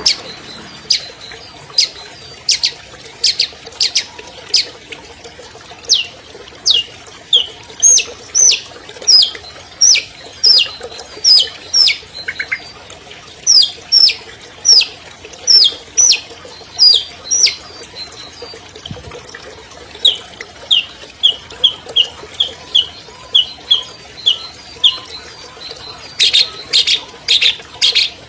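Long-tailed shrike (cendet) singing: a series of sharp, high notes that slide downward, about two a second. Past the middle they turn into a quicker run of short notes, and near the end into a dense burst of rapid calls.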